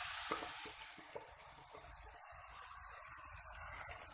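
Raw liver pieces sizzling in hot cooking oil in a pan, loudest in the first second and then settling to a steadier, quieter hiss.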